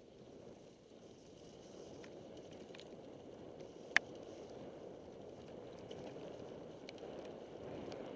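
Mountain bike descending a rain-soaked trail: a steady low rushing noise that slowly gets louder, with a few light clicks and one sharp click about four seconds in.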